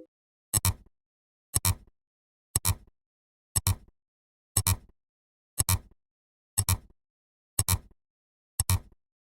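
A sharp double click repeating evenly about once a second, nine times, a ticking sound effect.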